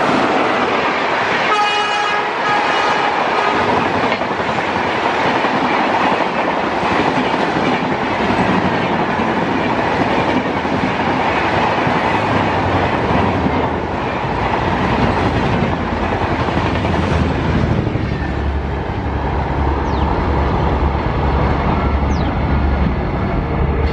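Indian Railways WAP-5 electric locomotive and its passenger coaches passing at speed: the locomotive's horn sounds for about a second and a half, about two seconds in, then the coaches rush past with wheel and rail clatter. The rumble gets deeper near the end as the last coaches go by.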